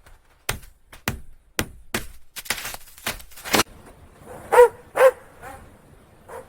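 A series of sharp knocks, about two a second, followed about four seconds in by a dog barking four or five times in short yelps.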